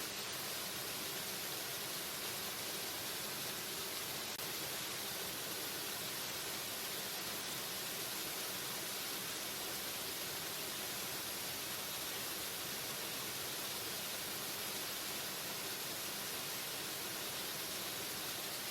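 Waterfall: a steady, unbroken rush of falling water, an even hiss heaviest in the high end.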